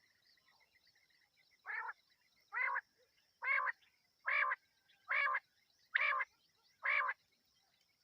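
Quail calling: seven short, rasping notes, about one a second, beginning roughly two seconds in. This is the quail's night call that hunters play as a lure.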